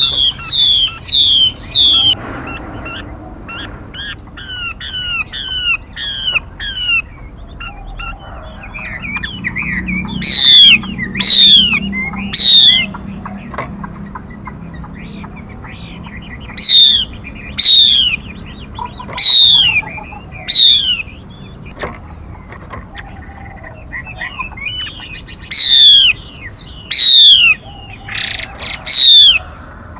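Lure recording of a female 'mi' bird calling: sharp, downward-sweeping whistled notes. They come fast and softer over the first few seconds, then in loud runs of several notes about a second apart.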